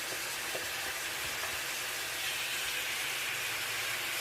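Seasoned chicken frying in a pan, a steady sizzle that grows a little brighter about halfway through.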